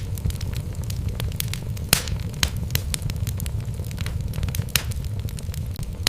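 Wood fire burning in a fireplace: a steady low rumble of flames with irregular crackles and pops from the logs, the sharpest pop about two seconds in.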